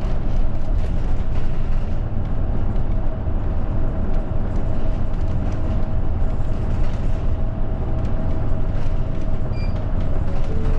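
Steady engine and road noise inside a moving route bus, a continuous low rumble with a faint steady hum over it.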